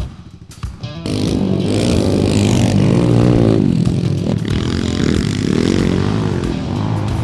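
Pit bike engine revving up and down as it rides the dirt track, getting loud about a second in, with music playing underneath.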